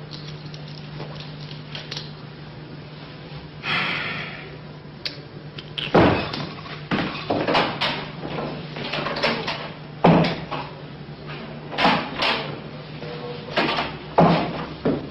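A series of sharp knocks and clatters, like doors and household objects being handled in a small room, over a steady low hum; a brief rustle comes about four seconds in.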